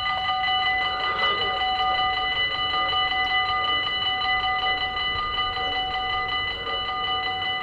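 Dutch level-crossing warning bells ringing continuously in rapid, even strikes, with a bright metallic ring.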